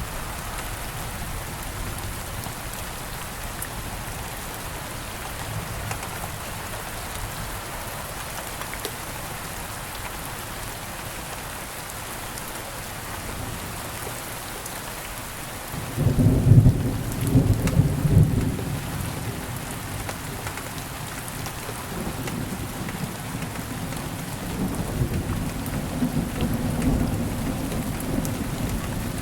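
Steady rain falling, with a clap of thunder rumbling in suddenly about halfway through, loud for a few seconds before trailing off, and a further low roll of thunder near the end.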